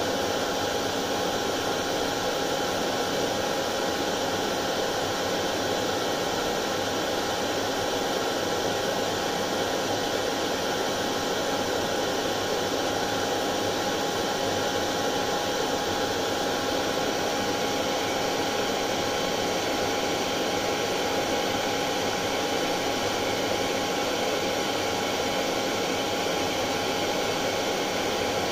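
Electric hair dryer running steadily: an even rushing blow of air with a faint constant motor whine.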